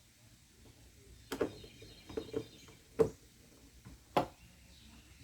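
A few sharp, separate knocks and clicks of bolts and tools on a trolling motor mount as it is fastened to a plastic kayak. The loudest comes about three seconds in, with another near the end.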